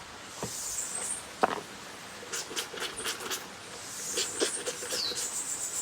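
Wet clothes being scrubbed together by hand, giving a run of short, rhythmic squeaks several times a second, after a single knock about a second and a half in.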